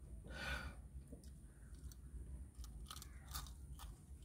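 A person biting and chewing crispy fried banana fritters (goreng pisang), with a scatter of crunchy clicks in the second half. One louder sound comes about half a second in.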